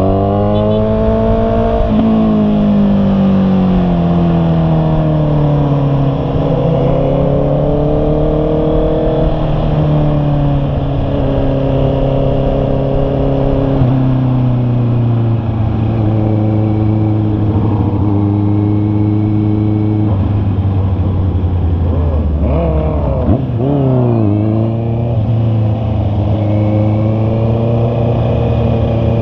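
Honda CB650R's inline-four engine on the move. Its pitch rises and falls through a series of accelerations and gear changes, with a quick up-and-down burst of revs a little past two-thirds of the way through.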